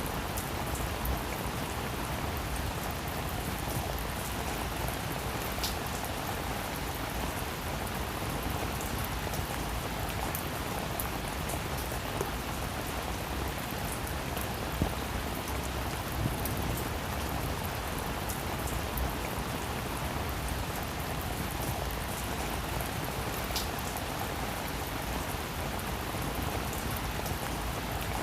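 Steady rain falling on a roof, an even hiss with single drops ticking sharply now and then.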